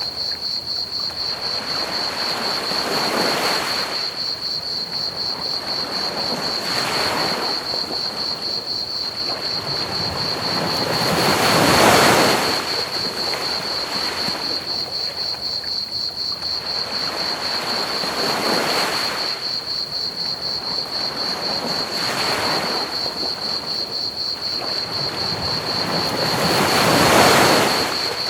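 Ocean waves breaking on a beach in slow swells, the biggest about twelve seconds in and again near the end. A constant high, fast-pulsing cricket chirp and a steady even hiss of pink noise run underneath.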